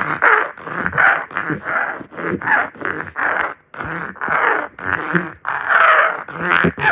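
A child's voice making a deliberately annoying harsh, rough vocal noise in short repeated bursts, about three a second.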